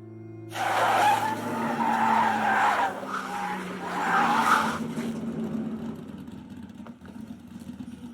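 Race car tyres screeching as the car brakes hard and skids, starting suddenly about half a second in. The screech surges a few times over about four seconds, then fades to a lower rumble as the car comes to a stop.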